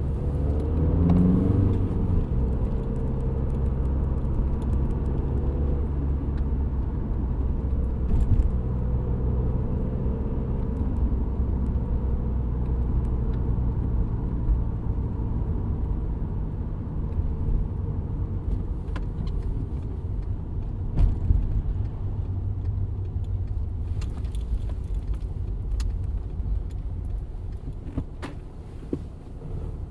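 Cabin noise of a 2007 VW Golf GT TDI being driven, its 2.0-litre BKD diesel running with a steady low drone and road noise. There is a brief rising pitch about a second in and a few scattered knocks and clicks.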